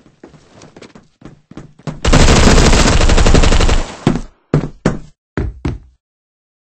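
Faint regular knocks, then a loud burst of rapid bangs lasting about two seconds, followed by several separate sharp bangs.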